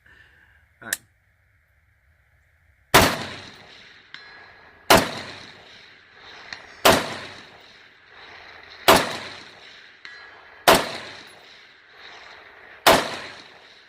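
Six shots from a 5.56 AR-15 precision rifle with a 20-inch barrel and a Control Solutions muzzle device, fired at a steady pace about two seconds apart, each sharp report trailing off in echo. Faint later pings follow some shots, the sound of hits on distant steel targets.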